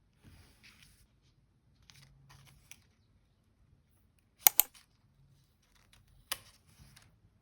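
Light handling of paper and stationery for diary decorating: faint rustling, then a sharp double click about halfway through and another single click nearly two seconds later.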